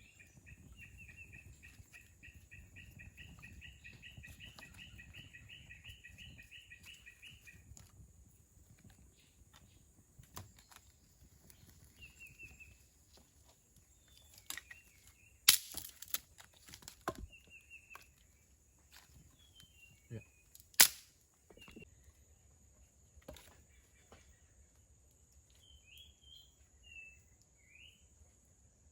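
Tropical forest ambience with a steady high-pitched insect drone. For the first seven or so seconds a bird calls a fast repeated trill, and short bird chirps follow later. Scattered sharp knocks break in, two of them much louder than everything else, about a third and two-thirds of the way through.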